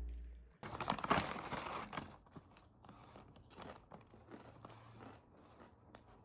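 Someone biting into and chewing crunchy food: a loud crunching bite about half a second in, then quieter chewing.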